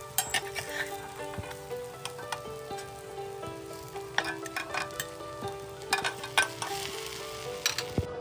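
Pork-stuffed baguette slices sizzling as they pan-fry, with sharp clicks of metal tongs against the pan as the pieces are turned. Soft background music plays under it.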